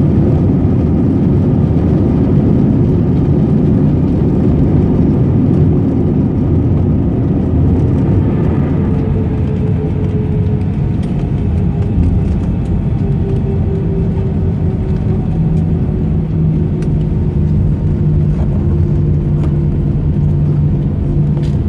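Jet airliner heard from inside the cabin after landing: a loud, steady low rumble of engines and rolling gear. In the second half a few steady humming tones emerge as the rumble eases a little, in keeping with the aircraft slowing to taxi.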